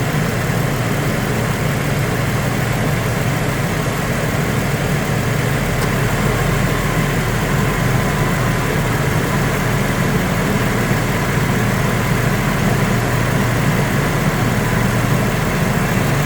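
2008 Saturn Vue's engine idling steadily with the air conditioning running while the system is being recharged with refrigerant.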